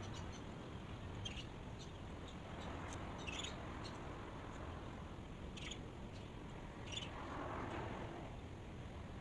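Dawn ambience: a few short bird chirps, about four spread over several seconds, over a faint high insect trill and a steady low rumble.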